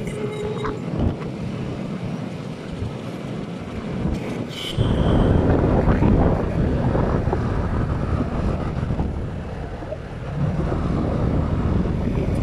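Wind buffeting the microphone, a low rumbling noise that swells about five seconds in, eases briefly near ten seconds and swells again.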